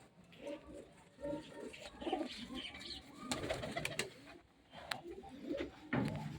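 Pigeons cooing, a string of low, throaty coos one after another, with a few sharp taps mixed in.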